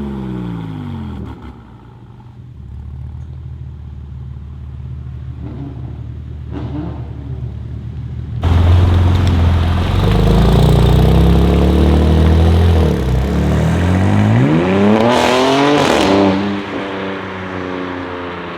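BMW M3 G80 Competition's twin-turbo straight-six through an R44 Performance exhaust. The revs fall back to a low idle at the start, and the engine turns suddenly much louder and deeper about eight seconds in. About fifteen seconds in it revs sharply up and drops back, then settles to idle near the end.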